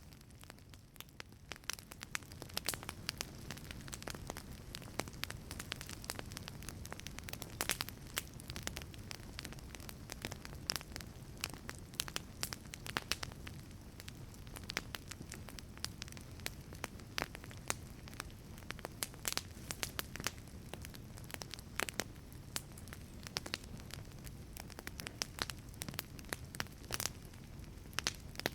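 Wood fire burning in a wood-fired pizza oven: irregular sharp crackles and pops over a steady low rush of flame.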